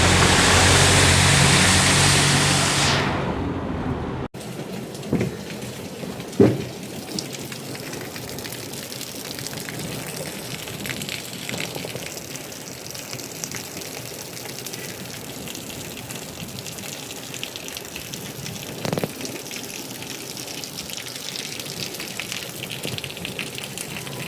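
Heavy rain falling with a low rumble of thunder, fading over a couple of seconds and then cutting off abruptly about four seconds in. Steadier, lighter rain follows, with scattered drips and a few sharp taps, the loudest about six seconds in.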